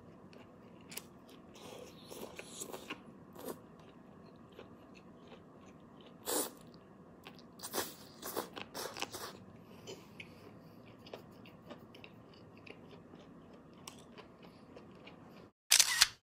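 Close-up eating of roasted asparagus: crisp bites and chewing, irregular crunches that are loudest around six seconds in and again between eight and nine seconds. A short, louder burst of noise comes just before the end.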